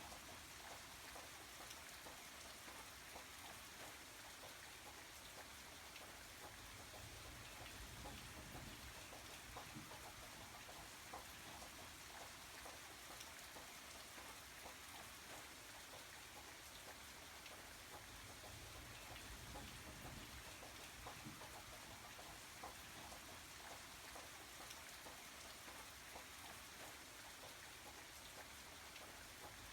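Faint, steady rainfall: an even hiss dotted with many small drop ticks.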